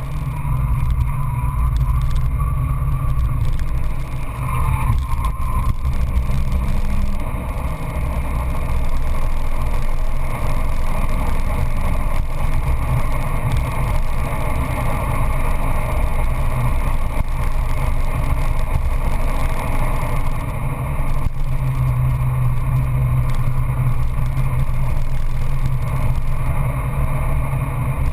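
Peugeot 206 GTI S16's four-cylinder engine running hard at track speed, heard from inside the cabin over steady road and wind noise. The engine note shifts briefly a few times.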